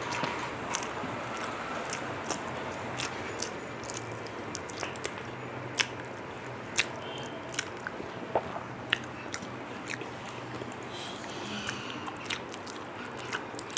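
Close mouth sounds of someone chewing a meal of rice and curry, with sharp, irregular clicks and smacks, over a low, steady hum.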